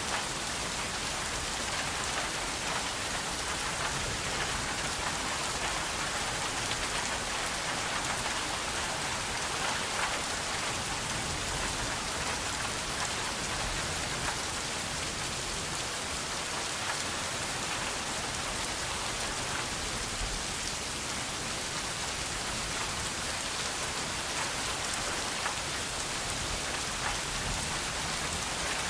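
Steady rain falling: an even hiss with faint ticks of single drops scattered through it.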